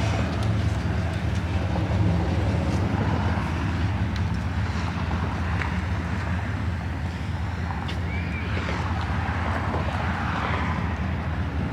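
An engine idling steadily, with faint voices in the background.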